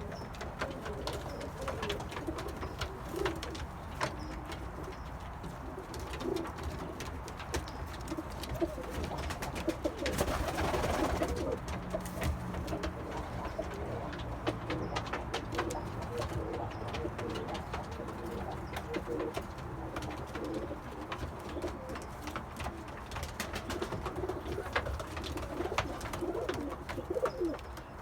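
Several Iraqi domestic pigeons cooing over and over, with many small clicks and scuffles. A brief louder rustling burst comes about ten seconds in.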